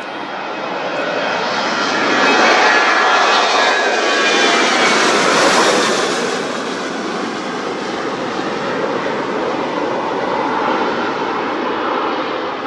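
Airliner's engines passing close by, a loud rushing noise that builds to its loudest a couple of seconds in. A whine falls in pitch as the aircraft goes past, and the noise then stays loud as it moves away.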